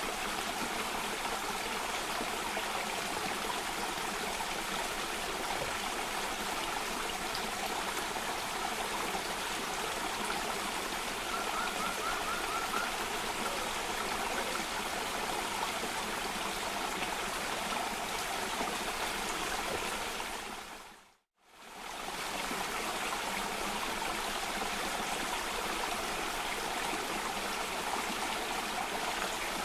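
Steady rushing of flowing water from a cascading stream. About 21 seconds in, the sound fades out to silence for a moment and fades straight back in, the join of a looped recording.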